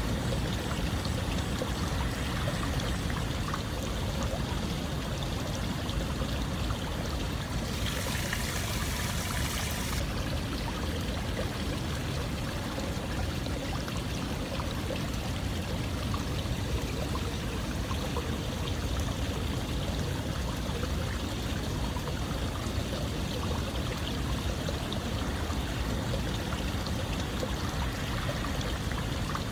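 Steady running water, flowing without a break, with a brighter hiss lasting about two seconds some eight seconds in.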